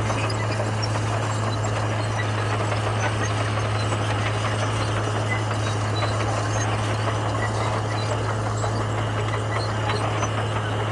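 Komatsu bulldozer's diesel engine running at a steady low drone, with faint scattered clinks over it.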